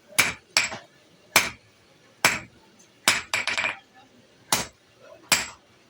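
Steel hammer striking metal on an anvil, about seven ringing blows at an uneven pace of roughly one a second, with a quick flurry of lighter taps a little past three seconds in: hand forging of a plough part.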